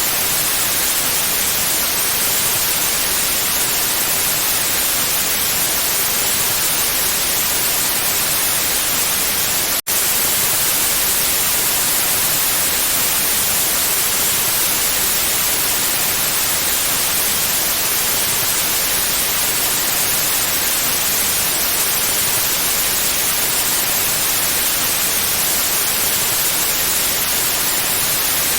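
Steady white noise: an even hiss with no tones, brightest in the highs, with a momentary dropout about ten seconds in.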